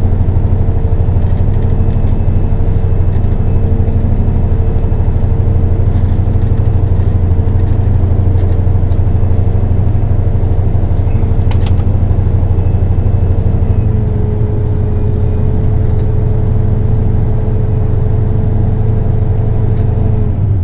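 Semi truck's diesel engine pulling steadily in a low gear up a rise, heard from inside the cab as a loud, even drone. The pitch and level ease slightly about two-thirds of the way through.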